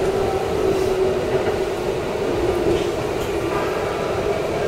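Keikyu electric commuter train running, heard from the cab: a steady, even rolling rumble with a constant hum and faint steady tones above it.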